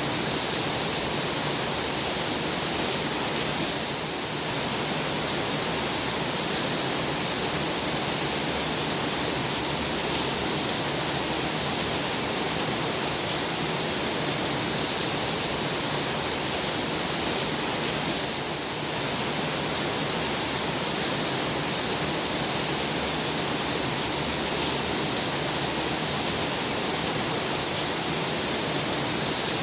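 Heavy rain pouring steadily, a dense, even hiss with no separate drops standing out. The sound dips slightly for a moment about four seconds in and again about eighteen seconds in.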